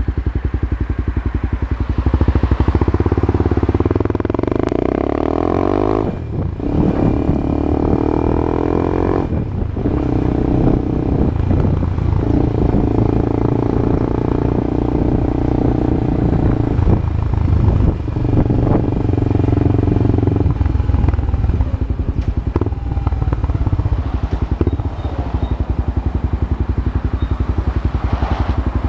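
Honda CB Twister single-cylinder engine breathing through a new aftermarket exhaust, revved up twice in the first ten seconds, the pitch climbing then dropping back sharply, then running steadily with a few further throttle rises. The exhaust note is loud.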